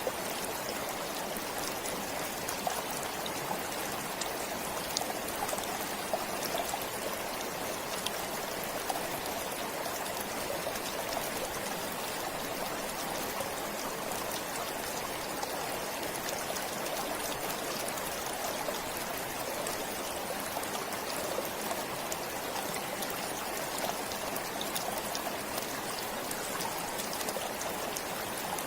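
Forest stream flowing steadily, water trickling and splashing over stones with many small drips and splashes.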